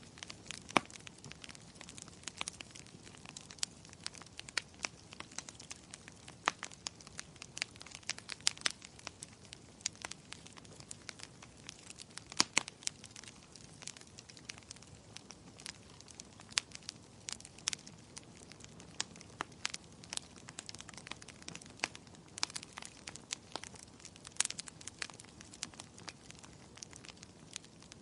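Wood fire crackling in a fireplace: irregular sharp pops and snaps over a soft hiss of burning, a few pops louder than the rest.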